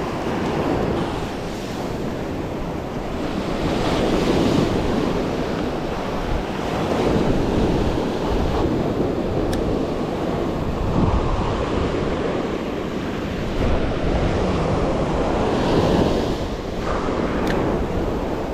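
Ocean surf breaking on a beach, the wash swelling and easing every few seconds, with wind buffeting the microphone.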